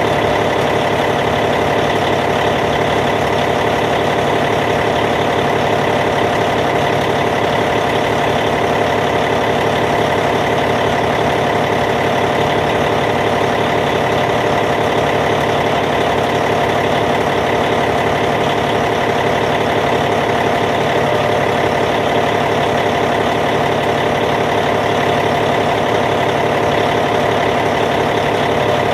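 Caterpillar C15 diesel engine of a Cat D8T bulldozer idling steadily, an even, unchanging rumble.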